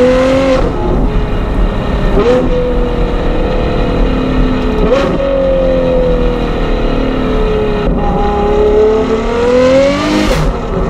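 Ferrari 812 GTS's naturally aspirated 6.5-litre V12 through a Novitec sport exhaust, being driven. The engine note climbs and eases off with four quick gear changes, each a sudden break in the pitch. Near the end comes a long rise in revs.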